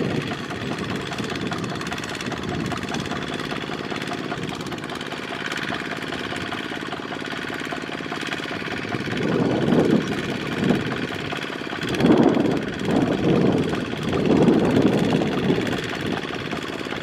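Single-cylinder diesel engine of a Kubota two-wheel mini tractor running steadily in deep mud, with uneven louder surges in the second half.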